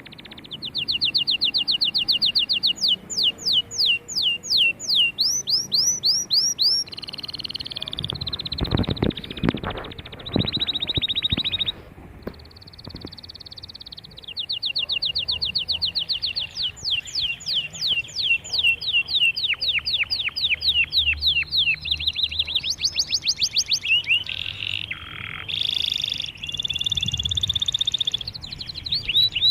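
Domestic canary singing: long phrases of fast repeated high notes, each trill lasting a few seconds, with short breaks between phrases and a brief lower rattle about nine to eleven seconds in.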